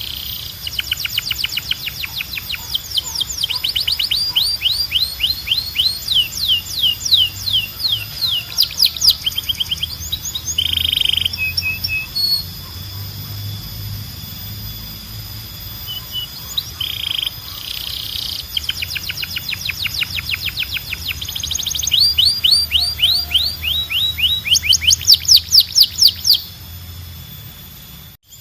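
Canary singing: long trills of fast, repeated down-slurred notes, broken by a few short held notes, over a low steady hum.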